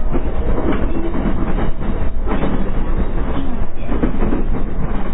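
Running noise of a JR East E233 series electric train heard from inside the car: a steady rumble of wheels on the rails with some rail-joint clatter.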